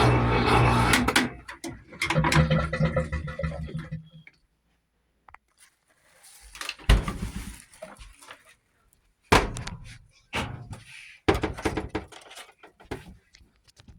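A short stretch of music cuts off. After a brief silence comes a series of sharp knocks and thunks, typical of the doors of a GE Spacemaker stacked washer-dryer being opened and closed.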